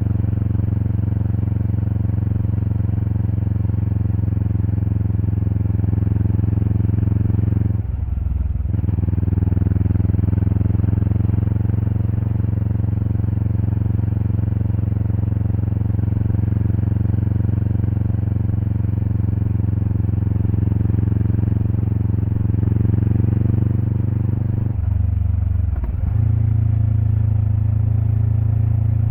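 Exhaust of a 2024 Kawasaki Eliminator SE's parallel-twin engine, fitted with a BEAMS header and muffler, running steadily on the move. The engine note dips briefly twice, about eight seconds in and again near the end, after rising slightly before the second dip.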